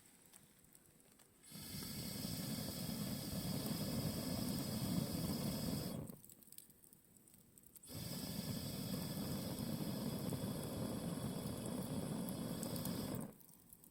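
Campfire flames giving a loud rushing hiss in two long bursts, each about five seconds, with a short quiet gap between them.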